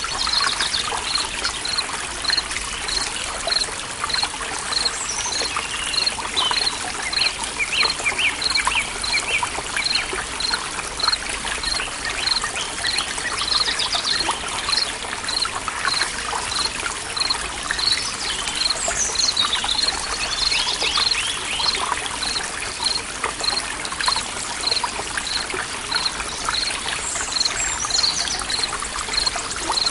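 Water trickling steadily in a stream, with birds chirping on and off. A short, high note repeats evenly about once a second throughout.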